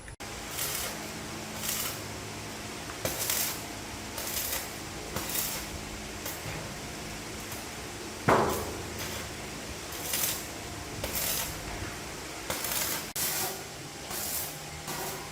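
Workshop sounds: a series of short hissing strokes, roughly one a second, over a steady low hum, with one loud clang about eight seconds in that rings briefly.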